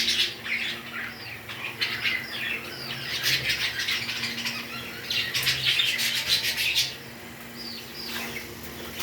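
Pet parrots chattering with rapid, high chirps and squawks, coming in loud bunches and growing fainter near the end.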